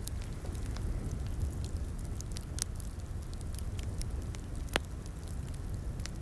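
Wood fire crackling in a fireplace: scattered sharp pops and snaps over a steady low rumble of flame, with one louder pop a little under five seconds in.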